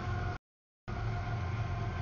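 CSX mixed freight train rolling past just behind its mid-train diesel locomotives, tank cars following: a steady low rumble with a few steady high tones. The sound cuts out completely for about half a second near the start, an audio dropout in the recording.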